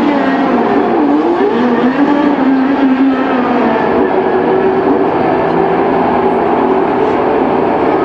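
IndyCar race cars running at speed on the oval, several engine notes overlapping in a steady drone. About a second in, one note drops and climbs back as a car goes by.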